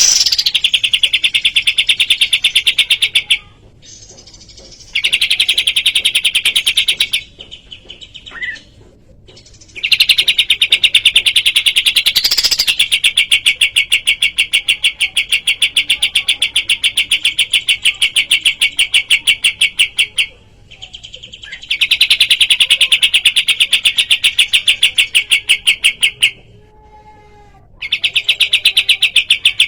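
Kapas tembak songbird singing long bouts of a rapid trill of evenly repeated notes. The bouts last several seconds each, the longest about ten seconds, with short pauses and one brief separate chirp between them.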